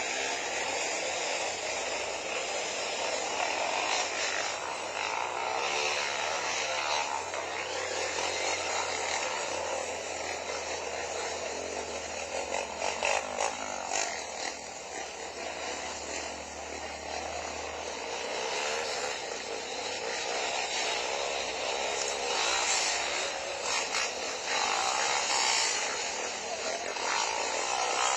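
Motorcycle engines buzzing and revving, the pitch wavering up and down.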